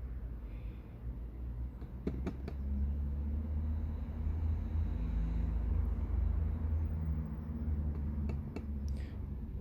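Low, steady rumble of another vehicle's engine running, swelling about two seconds in and easing off near the end, with a few light clicks of handling about two seconds in and again near the end.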